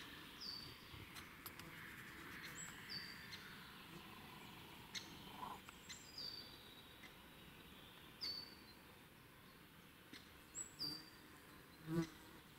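Great spotted woodpeckers giving single, sharp, high squeaking calls, about six of them spaced a second or more apart, over a quiet forest background. A short knock near the end.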